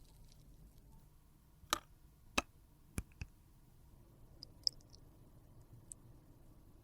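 Several sharp clicks and taps of small hard objects being handled, four in quick succession, then a few fainter ticks.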